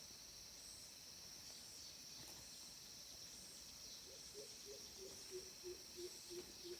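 Faint, steady high-pitched insect chorus. In the second half, a series of short low calls of an unidentified animal, about three a second, falling slightly in pitch.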